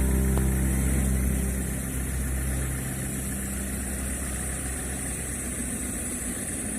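A held musical chord dies away over the first two seconds, leaving a steady low rumble like a distant engine or traffic.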